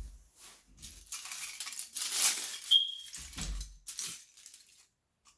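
Loose plastic Lego bricks clattering and clinking as pieces are rummaged through, with a few dull knocks and one short ringing clink; it stops shortly before the end.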